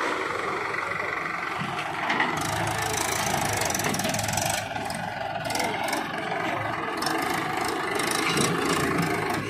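Heavy machinery's diesel engine running steadily.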